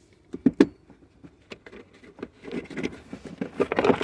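Handling noises at a car's fuse panel: scattered plastic clicks, taps and rustling as the panel and fuses are worked by hand, with a few sharp clicks about half a second in and busier tapping and rustling near the end.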